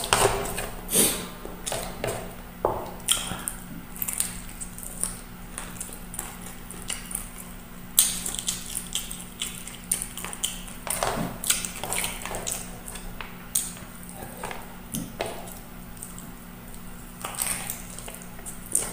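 Chewing, lip-smacking and sucking while eating adobo chicken feet and rice by hand: an irregular string of wet smacks and clicks, over a low steady hum.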